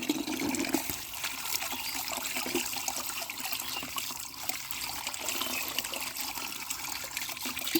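Running water splashing and trickling over muddy plastic toy vehicles as they are washed, with small patters and ticks of drops throughout.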